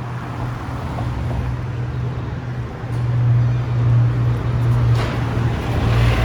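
City street traffic noise: a steady low rumble of vehicles with a wash of noise above it, growing louder about halfway through.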